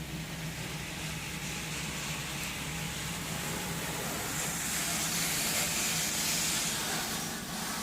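Touchless car wash arm spraying water onto the truck, heard from inside the cab as a hiss that swells about halfway through and eases near the end, over a steady low hum.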